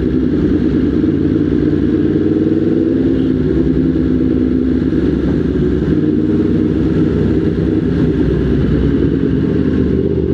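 Motorcycle engine running at a steady speed while riding, its pitch wavering slightly and rising a little near the end.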